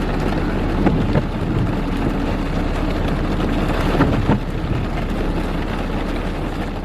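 Steady road and engine noise from a car being driven, heard from the cabin, with a few brief knocks.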